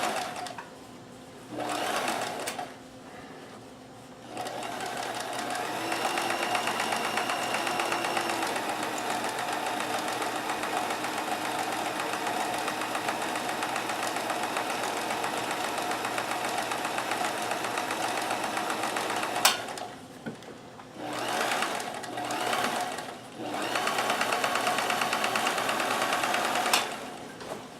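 Kenmore 158.1914 sewing machine stitching a multi-point zigzag through a denim jeans hem, running in a few short bursts, then a long steady run, then more short bursts and another run. A sharp click sounds as each long run stops.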